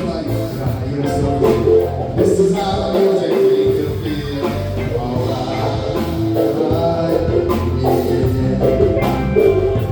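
Live band music playing.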